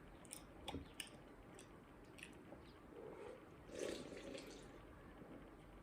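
Faint wet eating sounds: scattered small mouth clicks, then a louder squelchy chew about four seconds in.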